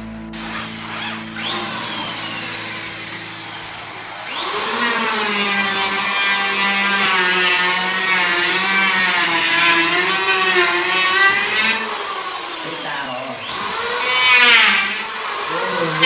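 Cordless drill driving screws into the wall: a pitched motor whine that wavers up and down with the trigger and the load for several seconds, then speeds up sharply and falls again near the end.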